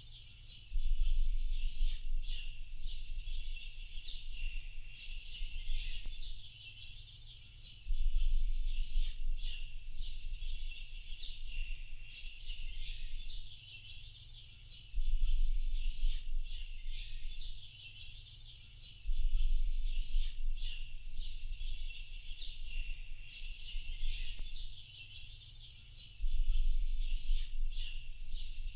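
Chorus of many songbirds chirping and trilling continuously at a high pitch. A low rumble swells up every five to seven seconds and holds for a second or two each time.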